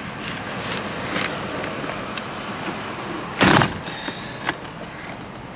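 A 2006 Lincoln Town Car's door being shut with a single thud about three and a half seconds in, with a few light clicks before it over steady background noise.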